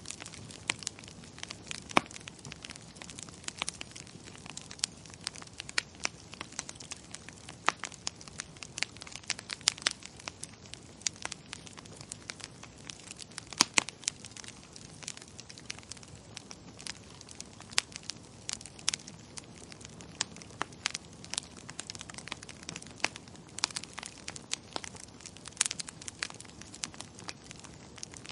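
Wood fire crackling in a fireplace: a steady low hiss with frequent sharp, irregular pops and snaps, a few louder cracks among them.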